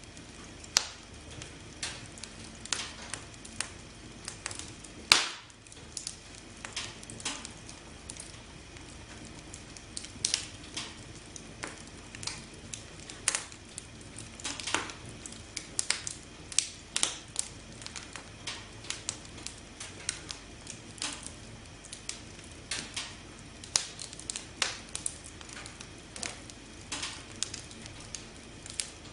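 Wood fire burning, crackling with irregular snaps and pops of varying loudness over a low steady hiss, with one loud pop about five seconds in.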